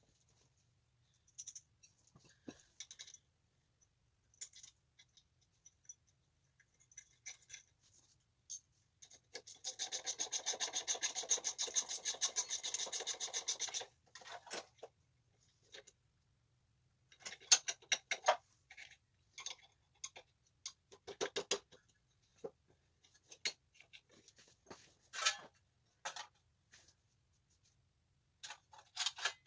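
Hand-tool work on minibike parts: a fast, continuous run of clicks lasting about four seconds near the middle, then scattered clicks and knocks of metal parts.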